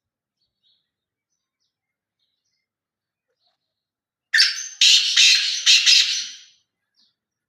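Black francolin (kala teetar) calling: one loud, harsh phrase of four or five notes lasting about two seconds, starting a little past halfway through, with a faint chirp just after.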